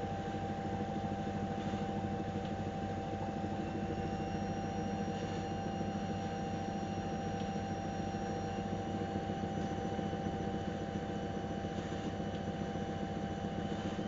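AEG Öko-Lavamat 693 washing machine running on a 95 °C boil wash: a steady mechanical hum with a constant whine over it.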